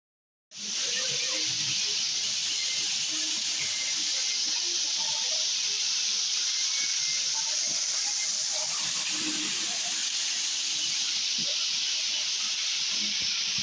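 Waterfall: a steady rush of falling water that starts about half a second in.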